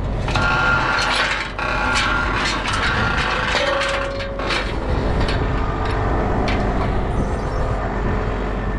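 Farm vehicle engine running steadily while feeding out grain, with repeated clicks and knocks over it.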